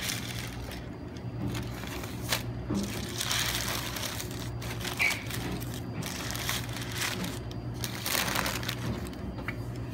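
Sandwich wrapping paper crinkling in a series of irregular rustles as the sandwich is handled and unwrapped, over a steady low hum.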